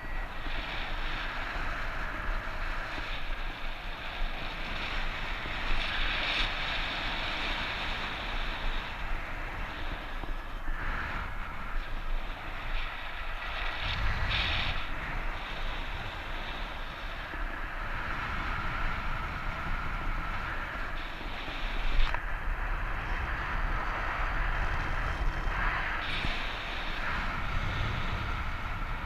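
Strong wind rushing over the microphone, a steady noise that swells and eases in gusts with a low buffeting rumble underneath.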